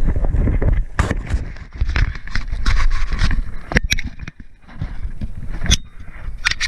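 Rustling, scraping and knocking as an airsoft player moves with a body-worn camera, his gear and clothing rubbing close to the microphone, with a few sharp snaps around the middle and near the end.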